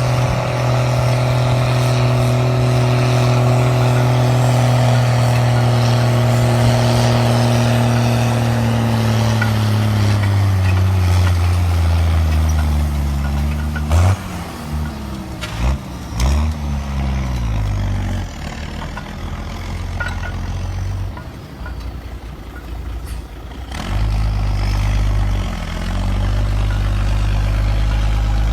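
Heavy Mercedes-Benz diesel engine of an MB-trac or Unimog-type farm vehicle held at high revs for about eight seconds. The revs then fall away over a few seconds, and it runs lower with the revs rising and falling. A few sharp knocks come about halfway through.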